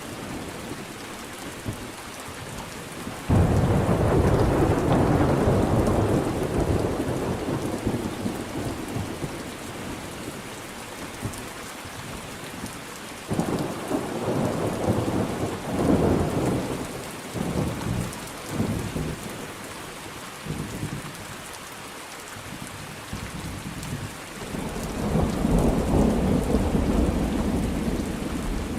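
Thunderstorm with steady rain falling. Thunder breaks suddenly about three seconds in and rumbles for several seconds, rolls again in uneven surges around the middle, and builds up once more near the end.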